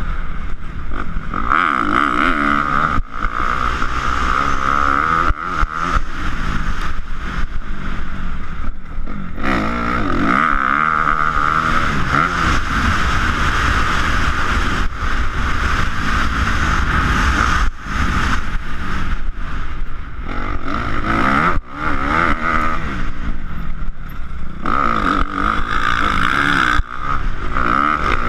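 Motocross dirt bike engine revving hard on a track, its pitch rising and falling again and again as the rider opens and closes the throttle, with a heavy low rumble underneath.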